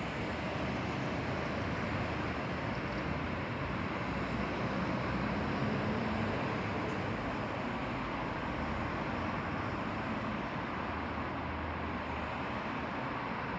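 Steady rumble and hiss of a moving road vehicle, running evenly without distinct events.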